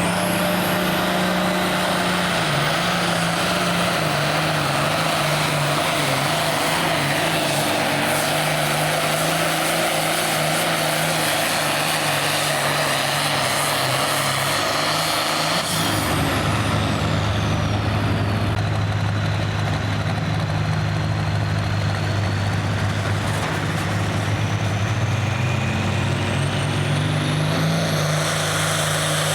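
Diesel engine of a modified Too Hot to Farm pulling tractor running hard at high revs. About halfway through, its note drops lower and gets heavier, and a faint high whistle slides down and later rises again near the end.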